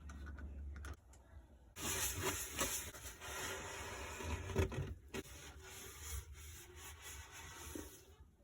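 Steady rubbing and scrubbing, as of a cloth or sponge wiping down a fridge surface, running from about two seconds in until near the end, with a few light knocks.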